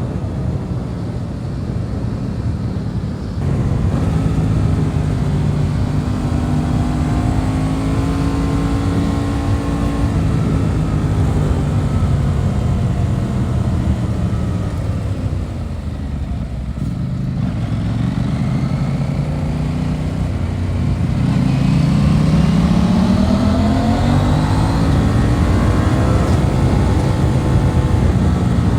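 Aprilia RS 660 parallel-twin engine under way. The revs climb early on, drop away steadily through the middle as the throttle is closed, and rise again in a long sweep in the last third.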